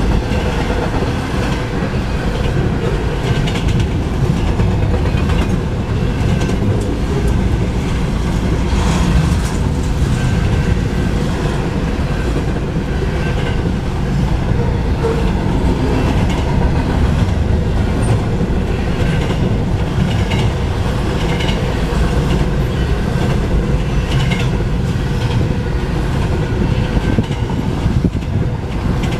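Double-stack intermodal freight cars rolling past on steel wheels: a steady heavy rumble on the rails with scattered clicking over the rail joints.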